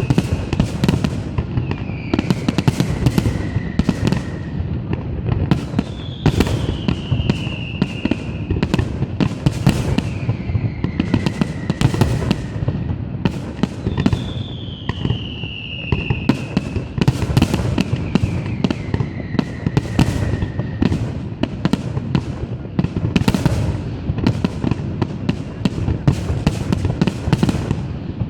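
An aerial fireworks display, with a dense, rapid run of bangs and crackling reports from shells bursting overhead.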